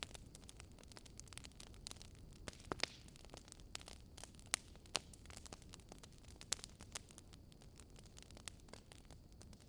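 Burning firewood crackling: irregular sharp pops and snaps over a low steady hiss, a few louder pops scattered through.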